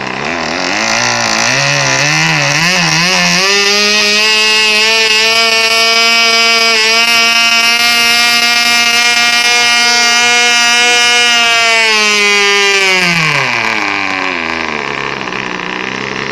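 FORA 2.5 cc model-aircraft diesel (compression-ignition) engine running. The revs surge unevenly at first, then hold steady and high for about nine seconds, and fall to low revs near the end. Its piston-liner pair is worn, so compression is poor.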